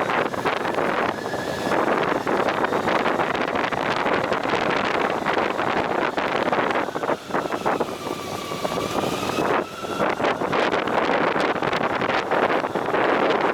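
Wind rushing over the microphone on a moving motorcycle, with the vehicle's running noise underneath. About eight seconds in, a faint whine briefly dips and then rises in pitch.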